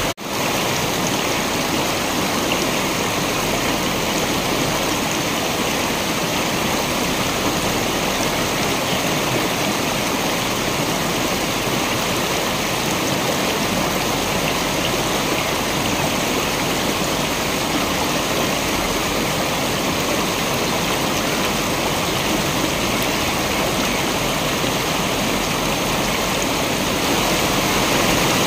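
Waterfall: a steady, even rush of falling water. It drops out for an instant right at the start, then runs unchanged, growing a little louder near the end.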